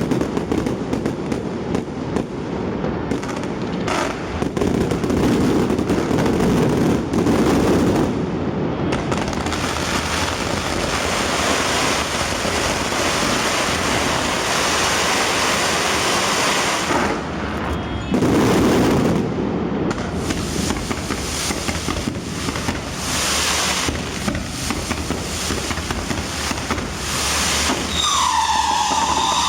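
A continuous barrage of fireworks and firecrackers going off, a dense run of crackling and bangs with no pause. Near the end a pitched, wavering tone with overtones starts up over it.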